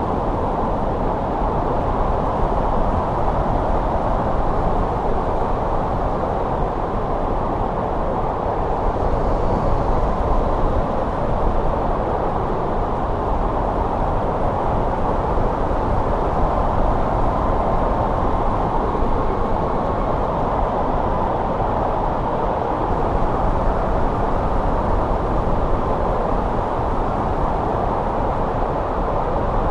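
Steady snowstorm wind, a continuous rushing noise with a low rumble beneath, swelling slightly about ten seconds in.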